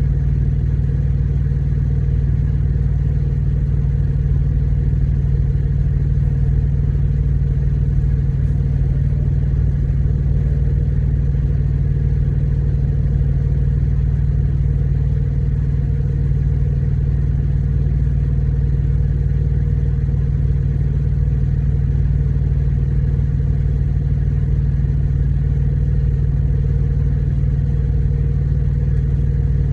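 Steady low drone of a truck's engine running at an even, unchanging speed.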